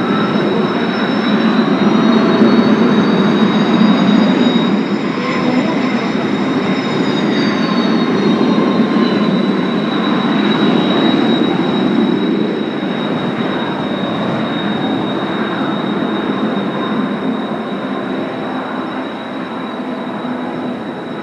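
Kawasaki T-4 jet trainers' turbofan engines running with a steady high whine over a dense rumble. About two seconds in, a second whine rises in pitch, holds, then falls back about eight seconds in, and the sound slowly fades toward the end.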